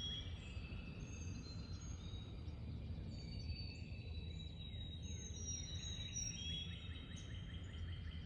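Faint outdoor ambience: a steady low rumble with thin, high bird chirps and whistles scattered throughout.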